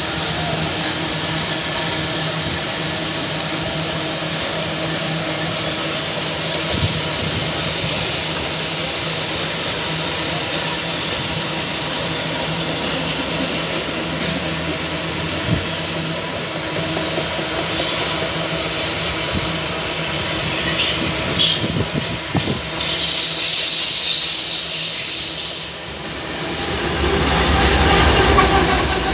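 A loaded iron-ore freight train's wagons rolling past, with a steady rumble of steel wheels on rail and clicks at the rail joints, and a stretch of high-pitched wheel screech a little past the twenty-second mark. Near the end, a diesel-electric locomotive closes in on the adjacent track, adding a deep engine rumble that grows louder.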